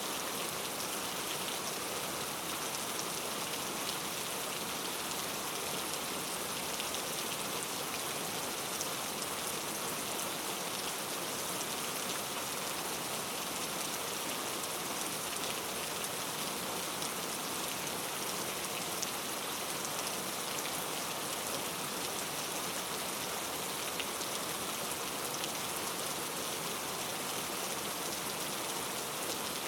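Steady heavy rain falling on rainforest foliage, an even hiss with scattered drop patter.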